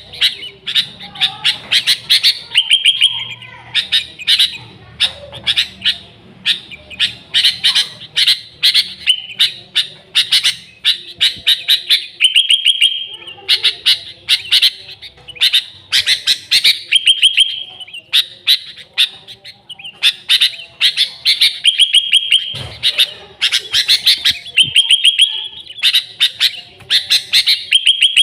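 Sooty-headed bulbul (kutilang) singing loudly and continuously: short phrases of quick, chirpy notes repeated about once a second, with no gaps.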